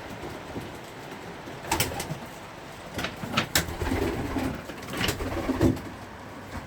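Domestic pigeons cooing in a small loft, with several sharp knocks and clatters among them.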